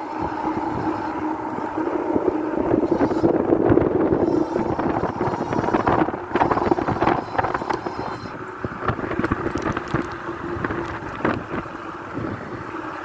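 Electric bike in motion: a steady motor whine over wind noise on the microphone, with scattered knocks and rattles.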